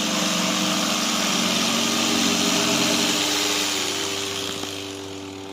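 Electric jigsaw cutting the edge of a sign board, a steady loud buzz that fades away over the last couple of seconds.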